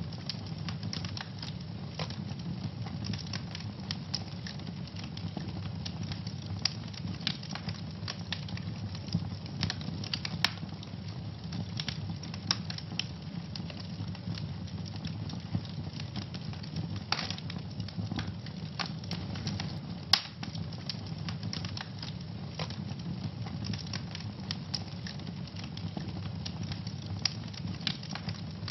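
Fire burning in a fireplace, crackling and popping over a steady low rumble of flame, with a few sharper pops, the loudest about twenty seconds in.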